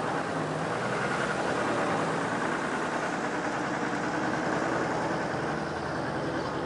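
A motor vehicle's engine running steadily with a constant drone, no change in speed.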